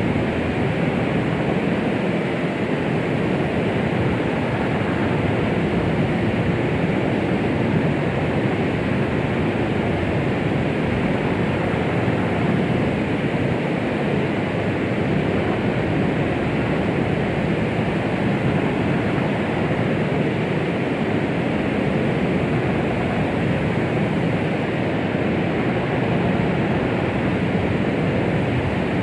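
Steady white noise: a constant, even rushing with no pulse or change, weighted toward the low and middle range. It is played as a womb sound to soothe a baby.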